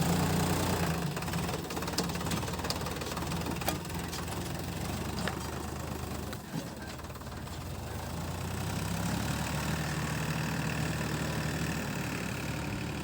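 Tractor's diesel engine running steadily at low revs. It is loudest at the start, dips briefly about six and a half seconds in, and picks up again a couple of seconds later.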